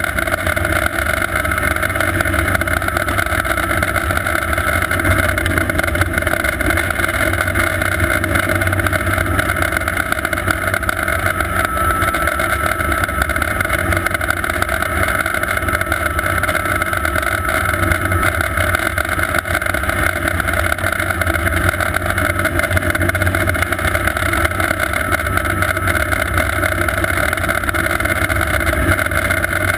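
Sikorsky S-58T twin-turbine helicopter running steadily, a loud even rotor and engine rumble with a thin, steady turbine whine over it.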